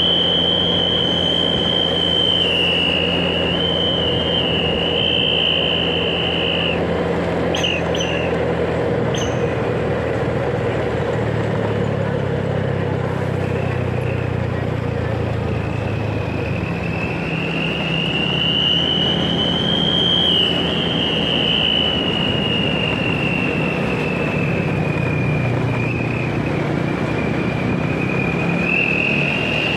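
Train running on rails with a high wheel squeal that wavers in pitch, fades for a few seconds in the middle and comes back, over a steady low rumble. A few short clicks are heard about eight seconds in.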